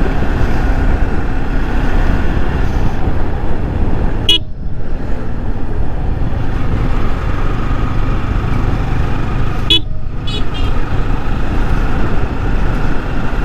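Steady wind rush and engine noise of a Yamaha R15 V3 motorcycle ridden at highway speed, heard from a helmet-mounted mic. Two short vehicle horn toots sound, one about four seconds in and another near ten seconds, the second one repeated quickly a few times.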